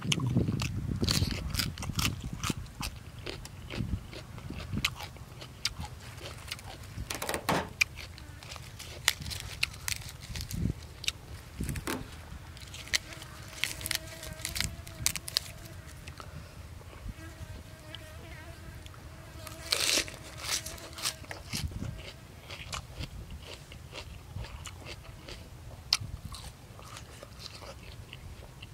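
Close-up eating sounds: chewing and mouth smacking with scattered crisp crunches of fresh leaves and vegetables. In the middle a faint buzzing hum wavers for several seconds.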